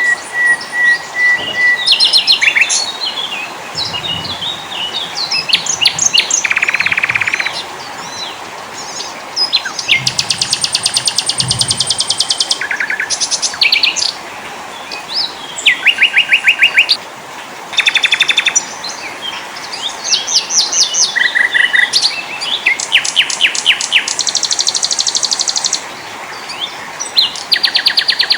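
Mix of small songbirds singing in quick succession: high chirps, fast rattling trills and rapid runs of repeated notes, overlapping one another over a faint steady hiss.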